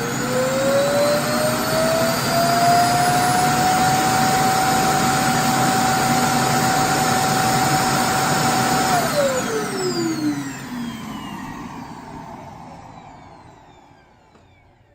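iRobot Roomba i7+ Clean Base dock's suction motor emptying the robot's bin into the base's bag. It is very loud, a full upright vacuum kind of sound: its whine rises as it spins up, holds steady for several seconds, then falls as the motor winds down and fades out.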